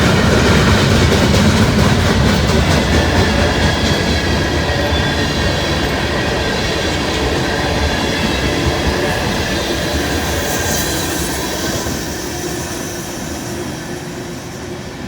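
Freight train cars rolling past on the rails, the wheel and rail noise with a faint high squeal, gradually fading away.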